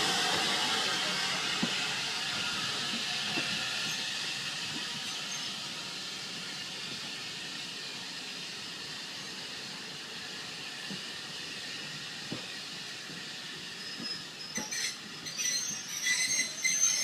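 Steam locomotive's hiss, loud at first and fading steadily over several seconds, with a few faint scattered clicks. Music comes in near the end.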